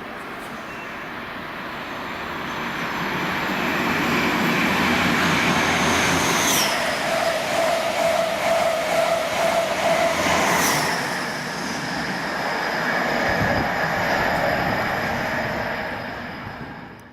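A train passing through the station at speed: the rumble builds up, stays loud for several seconds with a rapid rattling of the wheels over the rails, then eases, and the sound cuts off suddenly at the end.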